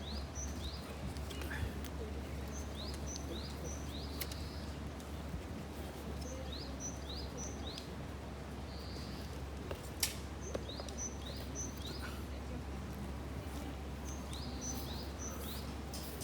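A songbird singing the same short phrase of quick, high, rising notes about every four seconds, over steady outdoor background noise. There is a single sharp click about ten seconds in.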